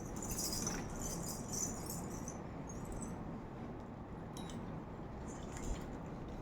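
Jingling, rattling sound, busiest in the first two seconds, then a few scattered clicks, over a steady low background noise.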